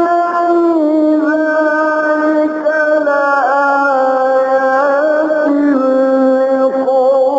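A man's voice reciting the Quran in the melodic mujawwad style, drawing out one long unbroken note. The note steps slowly down in pitch, with small trills along the way.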